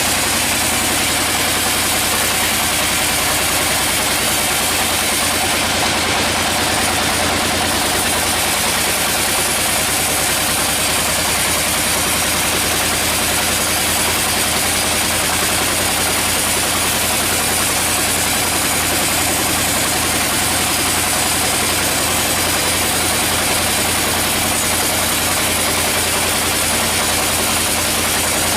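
Sawmill machinery running steadily: an even, engine-like hum with a continuous hiss over it, unchanging throughout.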